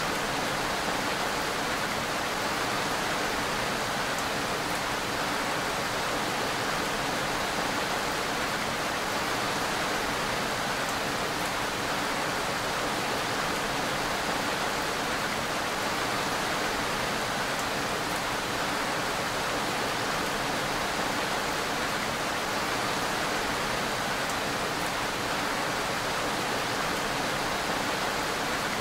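Steady rain falling: an even, unbroken hiss with no thunder and no single drops standing out.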